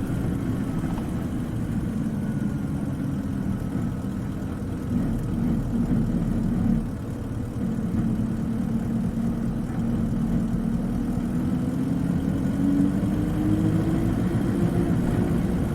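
Isuzu Cubic KC-LV380N city bus's diesel engine running under way, heard from inside the cabin. Its note drops briefly about seven seconds in, then rises steadily as the bus gathers speed.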